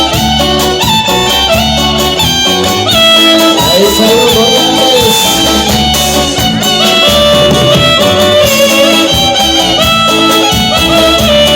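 A band playing a dance tune with a steady beat.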